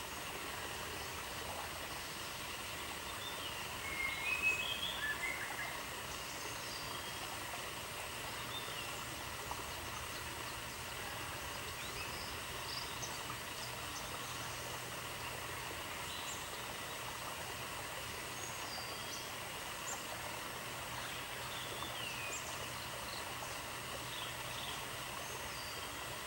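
Outdoor nature ambience: a steady hiss with birds chirping faintly here and there, and a short flurry of chirps about four seconds in.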